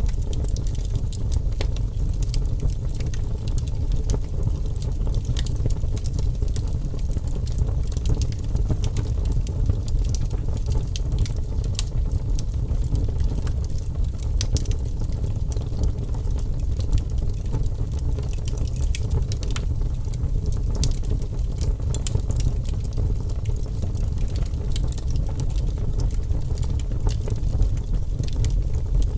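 Fire in a fireplace crackling: a steady low rumble of the flames with frequent short, sharp pops and crackles scattered throughout.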